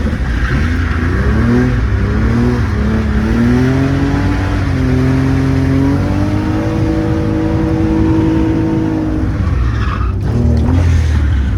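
Car engine accelerating hard, its pitch climbing and dropping back several times as it goes up through the gears, then one long climb that cuts off sharply about ten seconds in before the revs rise again.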